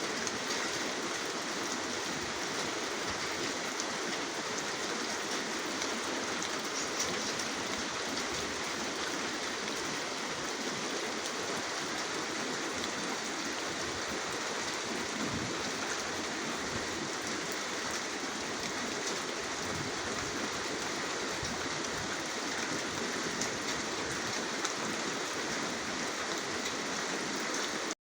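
Steady rain: an even hiss of falling rain with faint scattered drop ticks.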